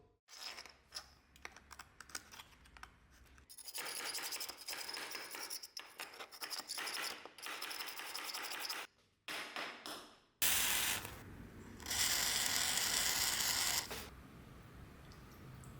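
Workshop restoration sounds in short cut-together clips: scratchy scraping and rubbing with small clicks, then two loud steady hisses lasting about one and two seconds.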